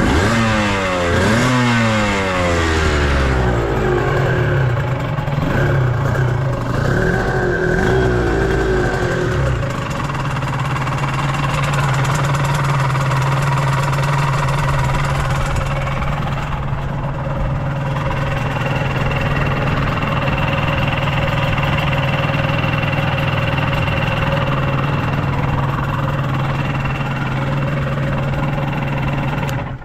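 Suzuki RGV250 Gamma's two-stroke V-twin, breathing through Sugaya racing expansion chambers, blipped up and down several times over the first nine seconds or so, then settling to a steady idle until it stops at the very end. It runs without abnormal noises, as the seller states.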